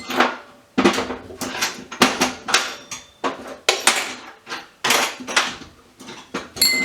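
Loose scrap metal parts clanking and clattering as they are handled and dropped into a bin, a quick series of sharp knocks with some brief metallic ringing.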